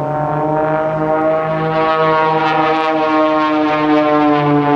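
Extra 300 and MX2 aerobatic airplanes' piston engines and propellers droning loudly, the pitch falling slowly as they pass.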